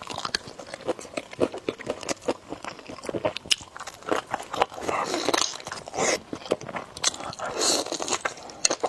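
Close-miked eating of spicy noodles: rapid wet chewing clicks and mouth smacks, with a few longer noisy stretches about five, six and seven and a half seconds in.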